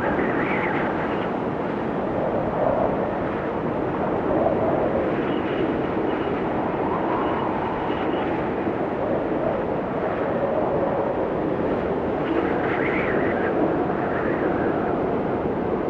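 Blizzard wind blowing hard and steadily, with gusts that swell and fade every few seconds.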